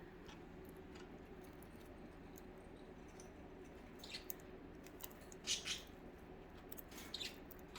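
Quiet room with a low steady hum and a few faint, brief, high-pitched sounds from pet budgies, about four, five and a half and seven seconds in.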